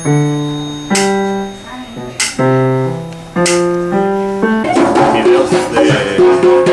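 Music on a single instrument: sharply struck chords, one about every second, each ringing and fading, then a busier, denser passage from about two-thirds through.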